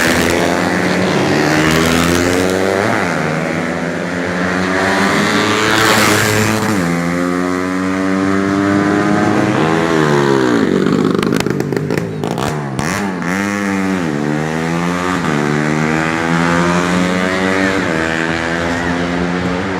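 Racing four-stroke 125 cc underbone motorcycles at full throttle, engine pitch climbing through the gears and repeatedly dropping and rising again as the riders back off and accelerate, with sharp dips and recoveries around the middle.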